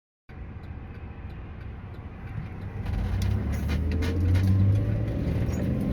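Van driving, heard from inside the cabin: a steady low rumble of engine and road noise that starts abruptly and grows louder about three seconds in as it picks up speed.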